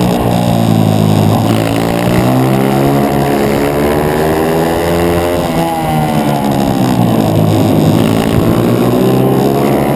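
A 140cc pit bike engine under hard racing throttle. The revs climb, drop sharply a little past halfway as the rider backs off, then climb again.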